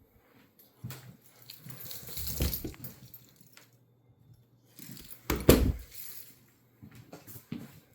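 Irregular clicks, rustles and knocks of things being handled, with a loud thump about five and a half seconds in.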